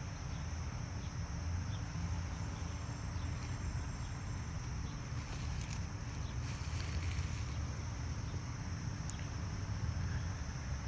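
Steady outdoor background of insects droning in a constant high band, over a low rumble.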